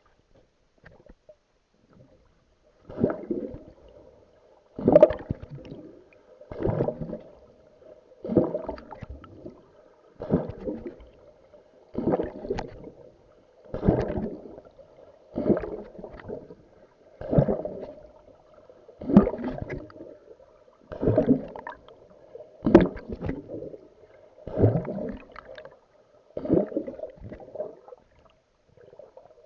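A swimmer's strokes in the sea: water splashing and gurgling in a steady rhythm, about one stroke every two seconds, starting about three seconds in.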